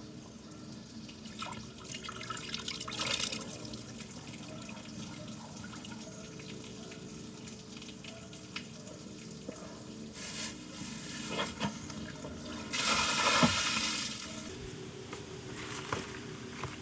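Water splashing and pouring in short bursts over a steady background, loudest about thirteen seconds in.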